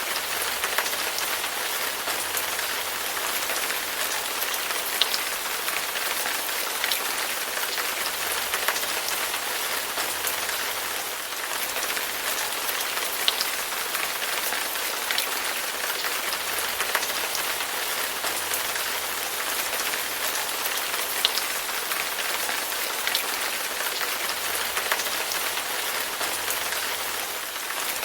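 Steady rain falling on a hard surface, a dense even hiss with scattered sharper drop ticks.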